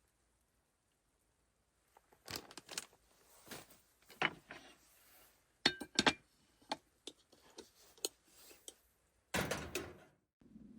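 Cooking gear being handled: scattered clicks, clinks and knocks starting about two seconds in, with a louder noise lasting about half a second near the end.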